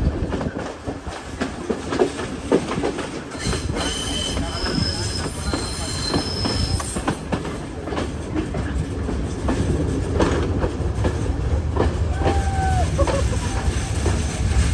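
Passenger train running along the track, wheels clacking over the rail joints under a steady rumble, with a high-pitched wheel squeal from about four to seven seconds in.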